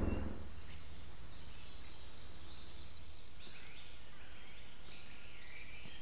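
Birds singing, heard through a trail camera's microphone over a steady low hum, with chirps and short phrases coming more often in the second half. A louder low rumble cuts off in the first moment.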